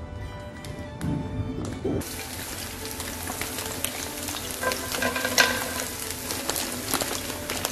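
Background music for about the first two seconds, then chopped spring onions sizzling in a frying pan. About three seconds later sweet corn kernels are tipped into the pan, with a louder burst of sizzling and crackling.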